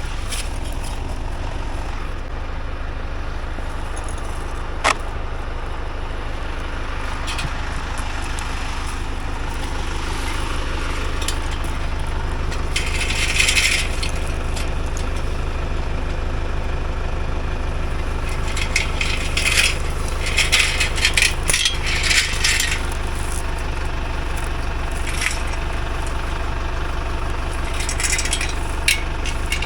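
AgKing tractor engine running steadily at a low hum, with scattered clinks and rattles over it, heaviest in short clusters about midway and past two-thirds of the way in.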